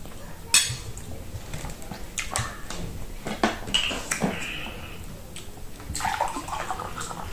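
Close-miked chewing and mouth sounds with scattered clicks of cutlery and plate. About six seconds in, water is poured from a plastic bottle into a glass.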